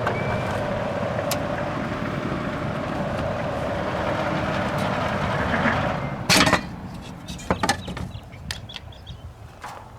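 A steady mechanical running noise with a faint held hum, dying away about six seconds in, then one sharp loud knock followed by several lighter clicks and taps.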